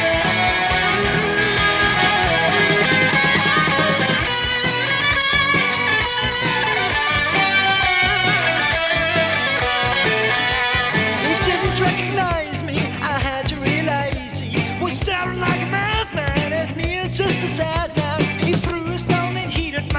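Instrumental 1970s hard rock: an electric guitar lead over bass and drums. Fast repeated notes in the first few seconds give way, about twelve seconds in, to wavering, bending guitar lines.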